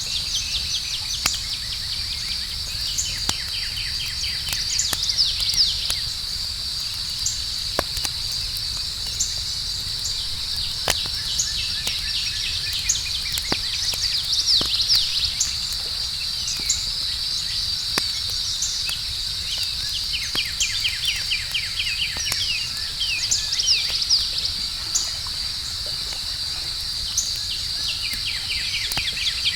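Wood campfire crackling with scattered sharp pops, over a steady high-pitched chorus of crickets. Short runs of rapid chirping come and go several times.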